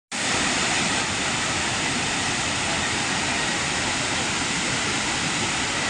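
Waterfall water pouring down in a steady, loud rush of noise that starts abruptly just as the sound begins.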